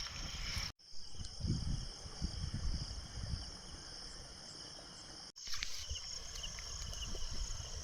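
Insects chirring steadily and high-pitched over a low outdoor rumble. The sound cuts off abruptly twice as the clips change.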